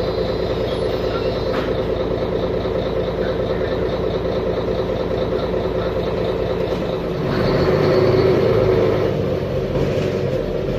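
Mercedes-Benz Conecto G articulated bus's OM457LA inline-six diesel engine running steadily, then louder under load from about seven seconds in.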